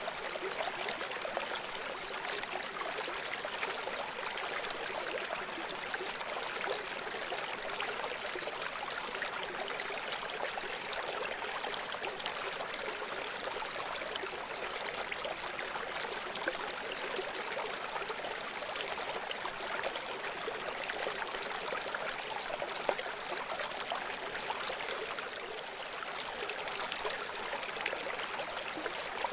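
Small stream running over rocks: a steady babble and trickle of water with fine splashing detail and little low rumble.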